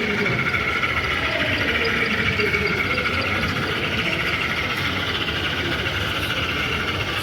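Model trains running on an exhibition layout: a steady mechanical running sound with a fine rapid rattle, over the general noise of the exhibition hall.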